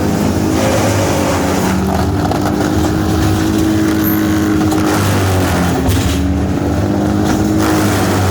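A large engine running steadily under load, its pitch drifting slightly up and down.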